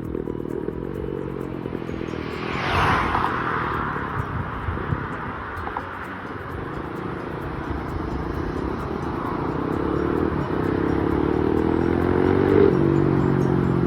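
KTM 690 SMC-R's single-cylinder engine running through a Leo Vince aftermarket exhaust, its pitch and loudness climbing over the last few seconds. A short rush of hiss comes about three seconds in.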